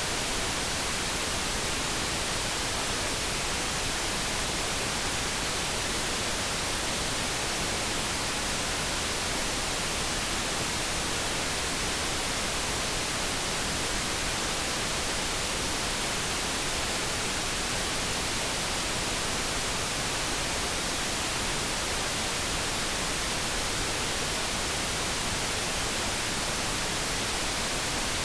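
Steady synthesized noise, an even hiss that runs unchanged, with no kettle tone or other sound in it.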